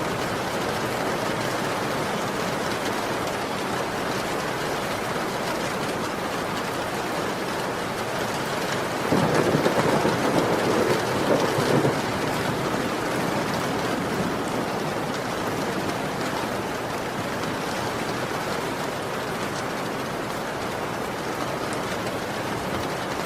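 Heavy rain falling steadily, with a roll of thunder about nine seconds in that lasts about three seconds before fading back into the rain.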